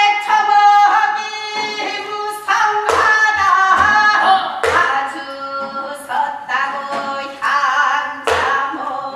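Gyeonggi folk singing in the fast hwimori japga style, held and wavering sung notes, punctuated by sharp drum strokes with low thuds.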